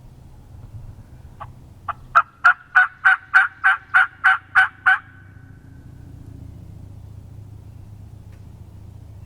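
A hand-operated turkey call run in a loud series of about eleven short hen yelps, about three a second, lasting around three and a half seconds.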